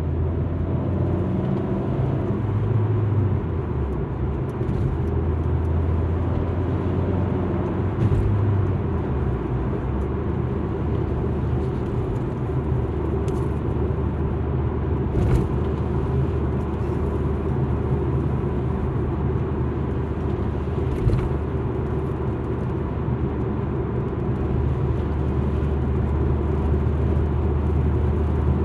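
Alfa Romeo MiTo being driven: steady engine and road noise, a low drone that shifts in pitch a few times as the revs change, with a few sharp clicks.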